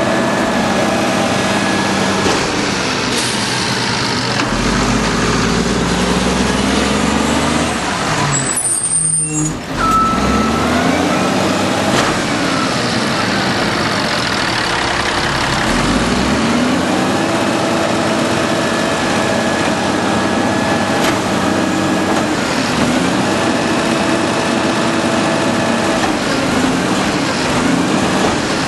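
Garbage truck's diesel engine running close by, its pitch climbing and falling again several times. Near nine seconds in the sound drops out briefly.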